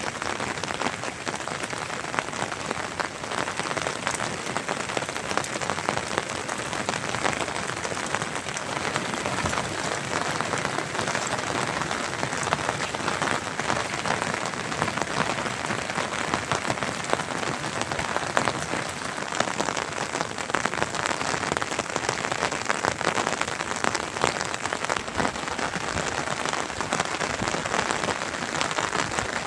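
Steady rain falling, a dense, even patter of many drops hitting surfaces.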